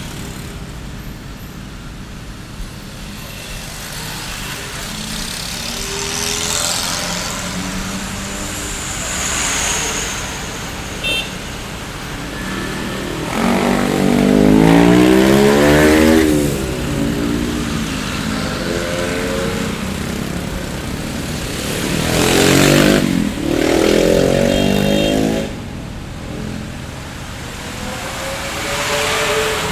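Street traffic with a steady background of engines and tyres. Two motor vehicles pass close by, their engine notes rising and falling in pitch: one about halfway through and the louder of the two, the other a few seconds before the end.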